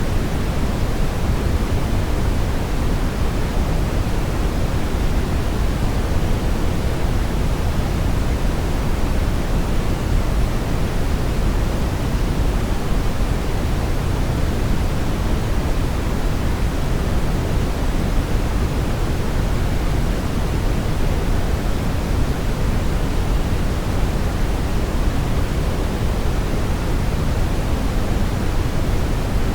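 Brown noise: a steady, deep rushing hiss, strongest in the low end and thinning toward the highs, unchanging throughout.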